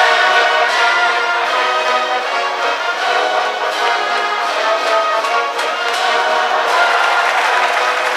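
A high-school brass band in the stands playing a baseball cheering tune, trumpets and trombones holding long notes in a moving melody.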